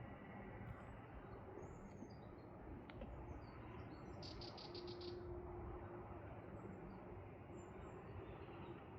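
Faint, scattered bird chirps over a steady low background hiss, with a short rapid trill of about seven notes about four seconds in.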